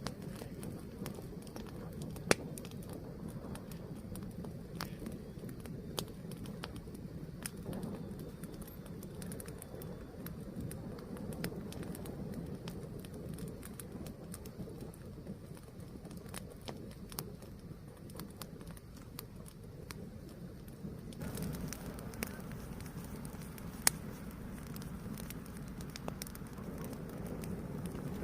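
A fire burning steadily with a low rush and scattered crackles, and two loud pops, one about two seconds in and one near the end. It turns brighter and hissier about three quarters of the way through.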